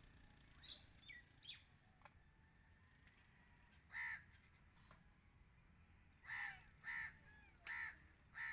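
A bird giving five short, harsh calls: one about four seconds in, then four in quick succession near the end, with fainter chirps early on.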